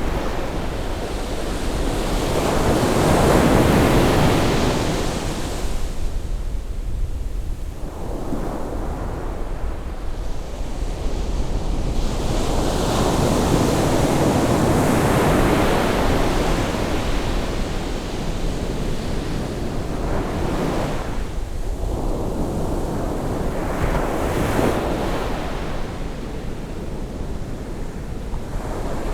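Ocean waves breaking on the shore as the tide rises, the surf swelling and falling back in slow surges every several seconds.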